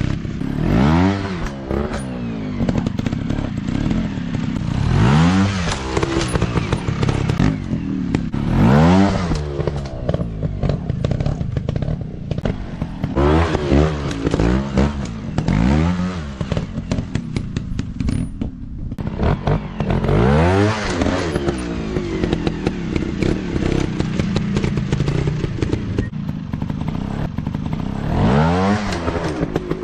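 Small single-cylinder dirt bike engines revving up and dropping back again and again, each rev a rising then falling note every few seconds, with sharp clicks and clatter throughout.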